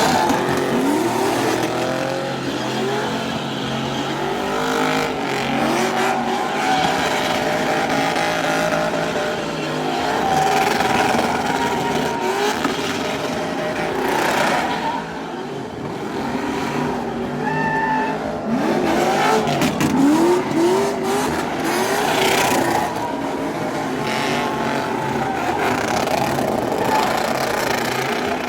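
Engines revving hard again and again over a steady din, each rev a quick rising pitch, with some tyre squeal.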